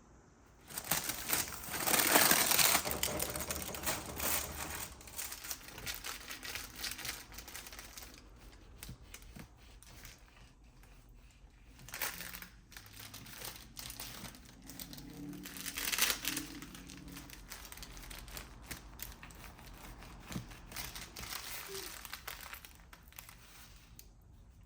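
Crinkling and rustling of something being handled, starting about a second in and loudest around two to three seconds, with further bursts near twelve and sixteen seconds.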